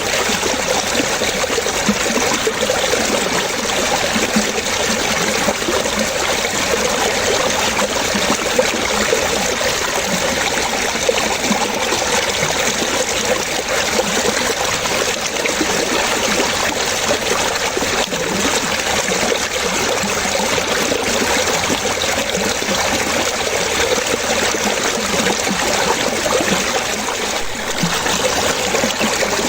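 Running water trickling and babbling steadily, like a small stream, with constant small bubbling splashes.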